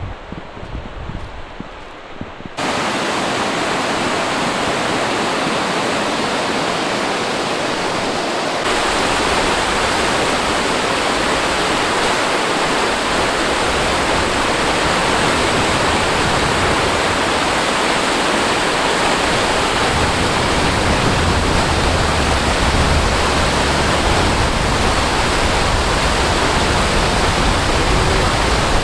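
Steady, loud rushing of fast water from a dam's power-station outflow, like a waterfall. The rushing jumps louder suddenly twice, about two and a half seconds in and again about nine seconds in, then holds steady.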